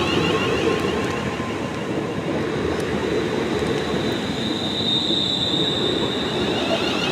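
Train running on the rails, a steady rumble with a high wheel squeal that swells about five seconds in.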